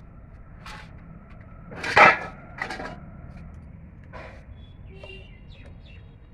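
Metal tools and parts clanking and scraping during work on a JCB's front wheel hub: a few separate knocks, the loudest about two seconds in, then faint metallic ringing.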